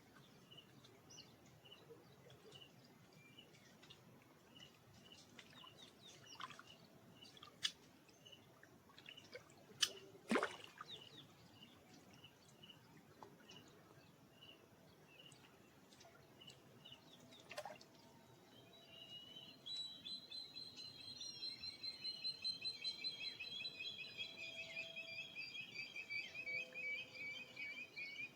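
Wild birds calling: a short high note repeated about twice a second, with a few sharp chirps, then about two-thirds in a louder, rapid trilling song takes over.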